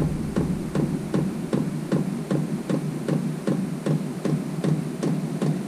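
Vevor 5 kW diesel air heater starting up: its fuel dosing pump ticks rapidly and evenly, about five ticks a second, over a low steady hum.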